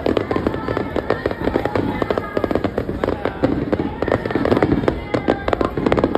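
Fireworks going off in rapid succession: a dense, continuous run of sharp bangs and crackles, several every second.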